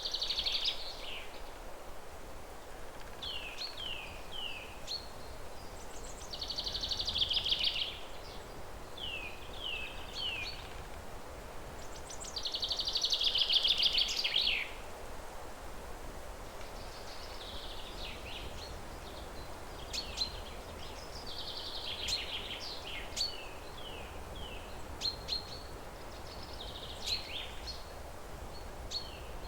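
Forest birds singing: short falling chirps repeated in groups of three or four, and several longer trilled songs, the loudest about a third and half way through, over a soft steady background hiss.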